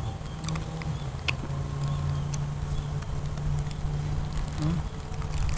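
A person chewing soft fruit, with scattered small mouth clicks, over a steady low hum.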